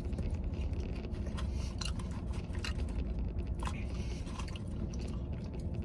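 A man chewing a mouthful of cheese-and-sauce-covered animal-style fries, with a few faint clicks and scrapes of a plastic fork in the paper tray. Underneath is a steady low hum inside a vehicle cabin.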